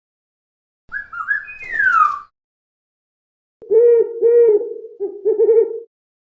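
Animal calls: a short whistled call with a falling slide about a second in, then a run of four hooting notes.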